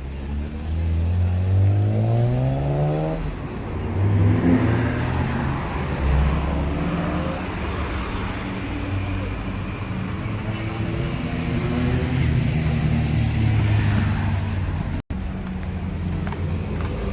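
Car engines accelerating past: one engine's note rises steadily in pitch over the first three seconds, then more cars keep running and revving through the rest. The sound cuts out for an instant about fifteen seconds in.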